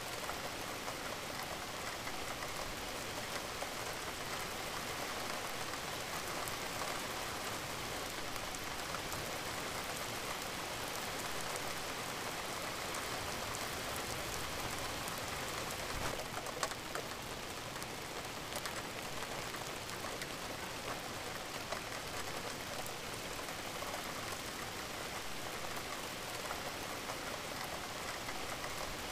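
Steady rain-sounds track: an even hiss of rain falling, unchanging throughout. A couple of faint clicks stand out briefly about halfway through.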